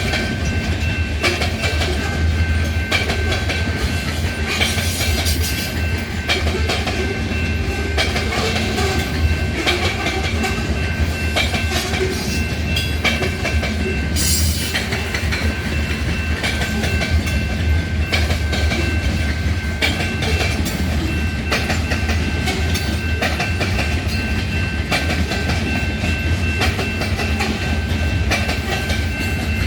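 Hopper freight train rolling past: a steady low rumble with the clickety-clack of wheels over rail joints, and a faint steady high tone above it. A short hiss comes about halfway through.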